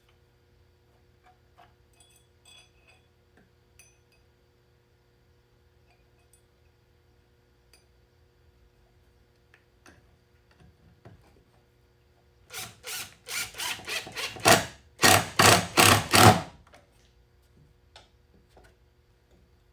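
Faint clicks and handling sounds, then about twelve seconds in a power drill run in a quick series of short trigger pulls, about a dozen in four seconds.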